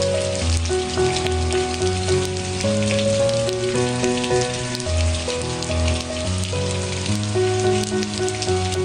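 Steady rain falling, a dense patter of drops, over soft music with a slow melody of held notes and a low bass line.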